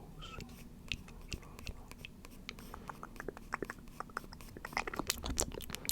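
Close-miked ASMR mouth sounds: a string of quick clicks and smacks, sparse at first and coming thicker and faster from about halfway through.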